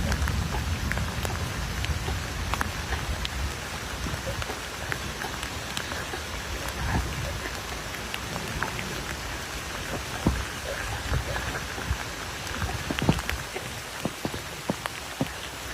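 Rain falling on a painted wooden tabletop: a steady patter with many sharp individual drop ticks scattered through it. A low rumble of thunder fades out in the first couple of seconds.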